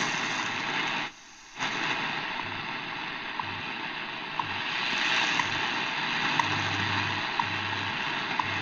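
Shortwave static hissing from the Eton Field BT's speaker, tuned to a 5000 kHz standard time-signal station. Faint ticks come once a second under a low pulsing hum from the station's time code. The sound dips out for about half a second about a second in, as the RF gain is turned down and back up.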